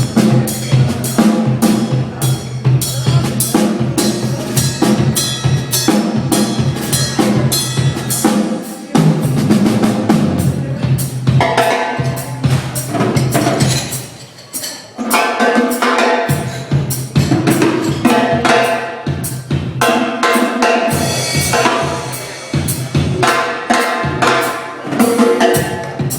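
A band playing live in a sound check: a drum kit keeps a steady beat with bass drum, snare and rimshots over bass and other pitched instruments, thinning out briefly about halfway through.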